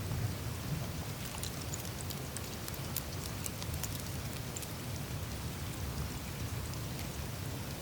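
Melting glacier surface ice: meltwater trickling and dripping through the ice, with many scattered tiny sharp ticks and crackles over a steady low rumble.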